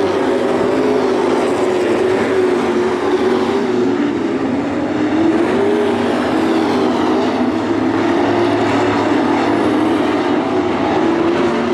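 Pack of dirt-track race trucks running at speed around the oval, their engines blending into one loud, steady drone whose pitch wavers up and down as they go through the turns.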